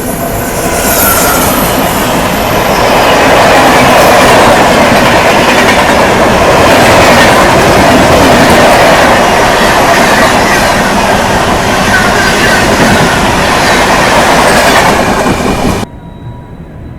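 An express train rushing past on the adjacent track as two trains cross, with loud clattering wheels over the rail joints and some squeal. The noise builds about a second in, stays loud, and cuts off abruptly near the end.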